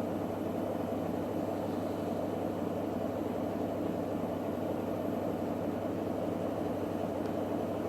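Electrolux WD41A84160 washing machine with its drum spinning at a steady speed: an even hum with a constant rushing noise, no change in pitch.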